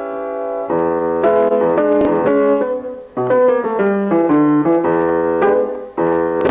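Keyboard music: held chords with a melody moving over them, played in phrases with brief breaks between them.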